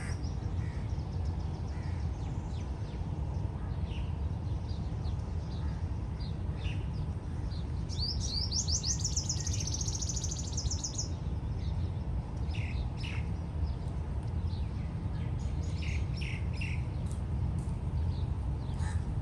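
Small birds chirping and calling over a steady low rushing background, with one rapid high trill lasting about three seconds in the middle.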